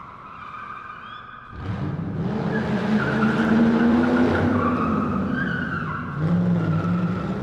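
Car engine revving with tyres squealing: a high squeal at first, then a loud engine sound that rises and falls, loudest in the middle.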